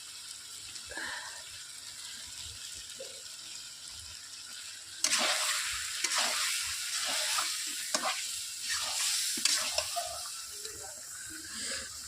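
Curd going into hot frying chicken masala: about five seconds in a loud sizzle starts, with a spoon stirring and scraping the pan in quick strokes.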